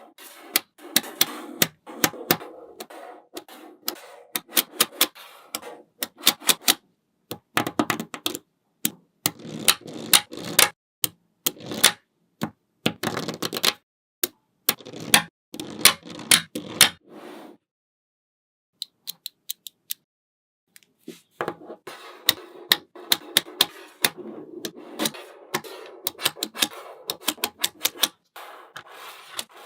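Small magnetic balls clicking into place against one another, with sharp clicks over a soft rattle as they roll and settle. There is a pause of about three seconds a little past halfway.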